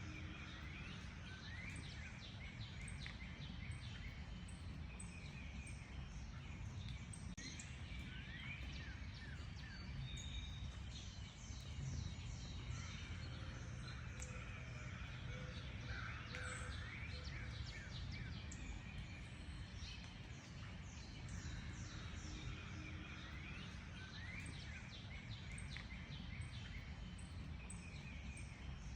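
Several songbirds chirping and calling together in a dense chorus of quick, high chirps and trills with some rising whistled notes, over a steady low rumble of background noise.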